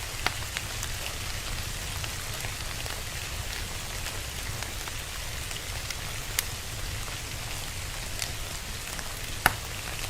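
Steady rain with the occasional sharp pop of a crackling fire, the loudest pop near the end.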